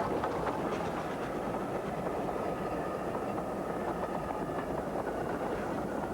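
Steam-hauled train running steadily, a dense rumble with faint clicks of wheels over rail joints.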